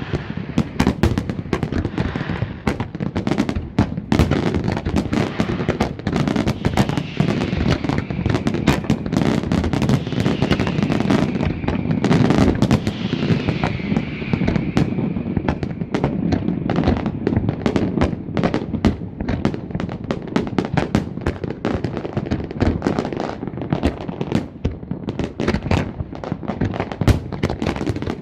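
Large fireworks display: a dense, unbroken run of crackling bursts and bangs over a low rumble, many shots a second.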